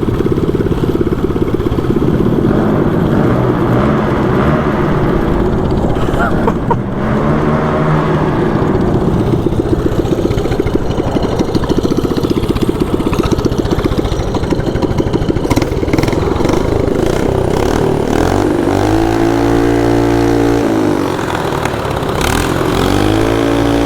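Small petrol engine of a 224cc mini bike running hard, revved up and down several times: about a third of the way in, again for a couple of seconds past the three-quarter mark, and once more near the end.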